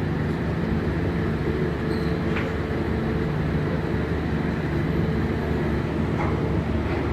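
Docked cargo ferry's engines or generators running, a low steady drone with a few faint clicks.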